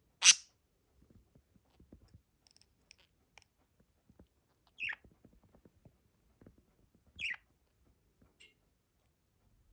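A small pet parrot gives three short, high chirps, each falling in pitch, with the first the loudest. Faint clicks and scratching come between the calls.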